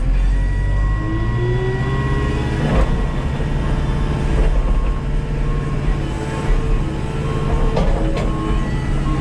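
Skid steer engine running steadily under background music with short repeating notes, with two sharp cracks, one about three seconds in and one near the end.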